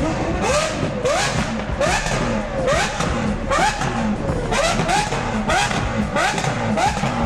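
Lamborghini Aventador SVJ V12 with an aftermarket exhaust being revved over and over, a quick rise in pitch about once a second.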